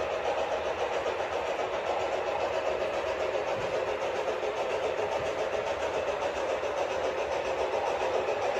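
HO scale model train with Fairbanks-Morse H24-66 Train Master diesel locomotives running steadily along the track.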